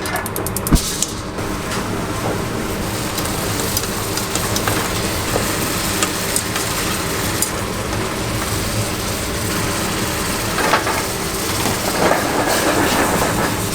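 Chicken restaurant kitchen at work: food sizzling as it fries or grills over a steady rumbling din, with scattered clicks and knocks of utensils and a louder clatter near the end.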